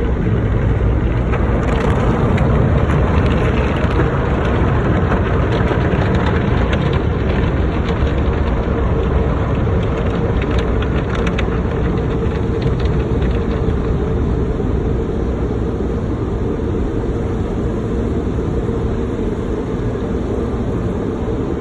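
Steady, loud rushing noise of a car wash, with a faint steady hum and scattered crackles through the first half.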